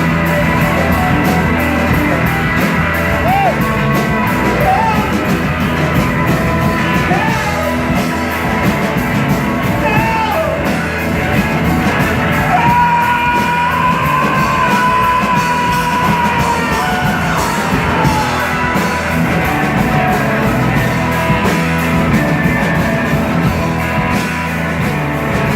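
Live rock band playing, with drums, bass and a lead line that holds a long note about halfway through.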